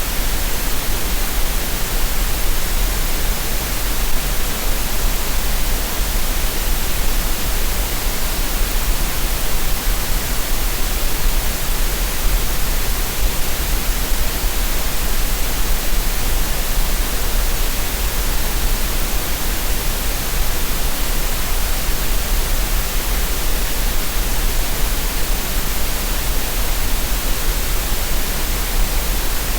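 Steady synthetic green noise for relaxation: an even, unchanging hiss spread across the whole range with a strong low rumble band beneath it.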